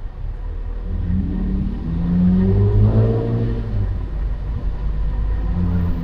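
A motor vehicle's engine accelerating at close range. It grows loud within the first second and climbs steadily in pitch for a couple of seconds, then keeps running under load.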